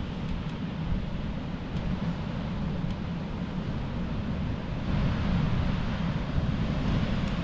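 Wind rumbling on the microphone over surf breaking on a beach, with a wave washing in about five seconds in.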